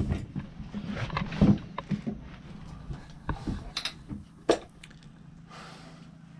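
Hand tools and metal parts being handled during motorcycle disassembly: scattered clicks and knocks, busiest in the first couple of seconds, with a sharper knock about four and a half seconds in, over a steady low hum.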